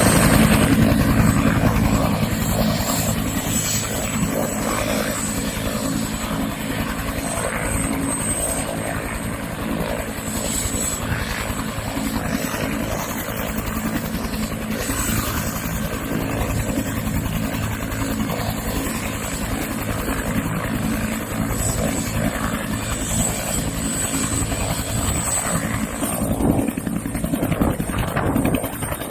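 Bell 212 helicopter lifting off vertically into a hover: the fast beat of its two-bladed main rotor under a thin, steady, high turbine whine, holding a fairly even loudness.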